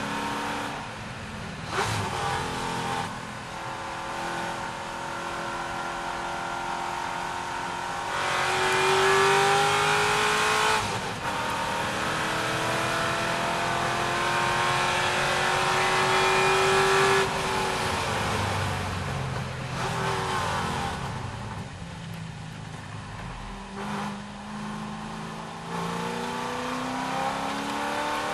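C6 Corvette's V8 engine at racing speed, pulling hard through the gears: the pitch climbs in long runs broken by quick upshifts, then drops away as the driver lifts and downshifts for a corner, and climbs again near the end.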